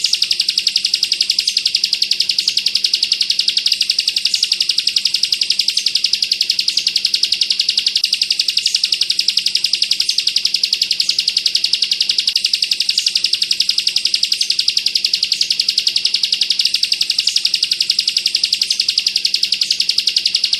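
Ciblek (prinia) singing a rapid, unbroken trill of fast repeated high notes: the dense 'bren' rattle kept at a steady loudness.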